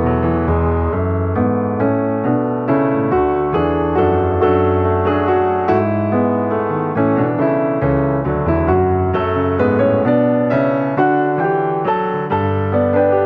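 Background piano music: a steady stream of notes with a low bass line under a melody.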